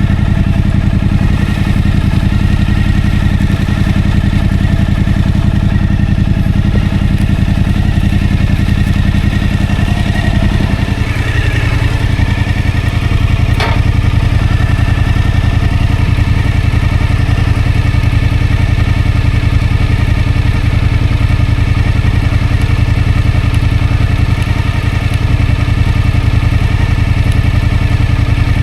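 Suzuki V-Strom motorcycle engine running steadily. Its note shifts about eleven seconds in, and a single sharp click comes a couple of seconds later.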